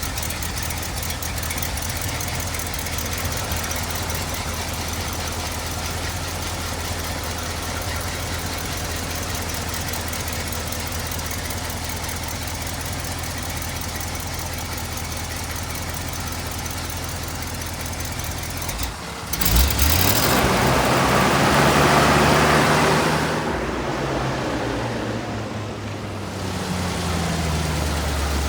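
1977 Ford LN600 grain truck engine idling steadily. About two-thirds of the way through it is revved up sharply for a few seconds and drops back toward idle, with a smaller rise and fall in pitch near the end.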